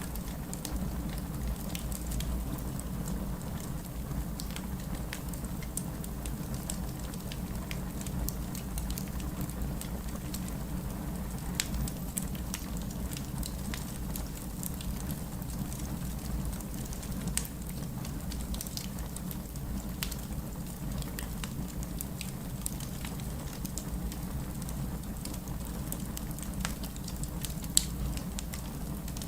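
Steady rain mixed with a crackling wood fire: a constant low rumble of rain under frequent small pops and clicks from the fire, with one sharper pop near the end.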